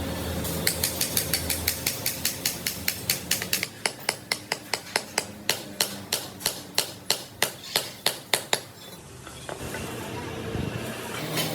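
A hammer tapping rapidly on metal, about five blows a second, slowing and spacing out past the middle and stopping about nine seconds in.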